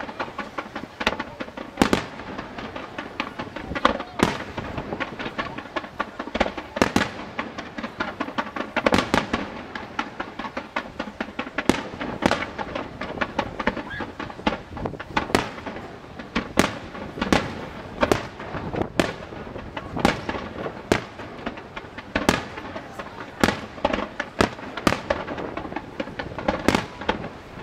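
Fireworks display: an irregular, continuous string of sharp bangs from aerial shells bursting, often one or two a second, over a steady haze of crackling and fizzing.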